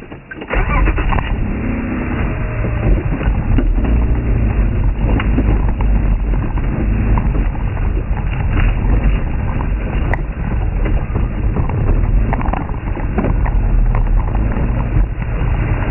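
Open safari game-drive vehicle running on a rough dirt track: a steady low engine and road rumble that starts suddenly about half a second in, with scattered knocks and rattles from the body over bumps.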